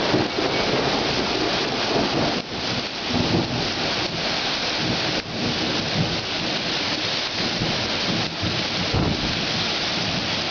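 Intense rain pouring down steadily in a supercell thunderstorm, a dense hiss with low rumbles rising and falling underneath.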